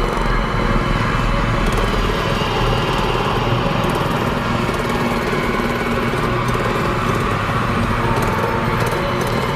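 Small mini bike engine running steadily.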